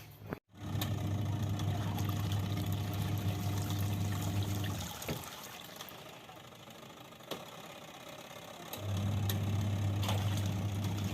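Sanken twin-tub washing machine's wash motor running with a steady hum and water sloshing in the tub. It runs for about four seconds, stops, and starts again near the end, the start-stop pattern of the wash cycle, now running on a newly fitted gearbox.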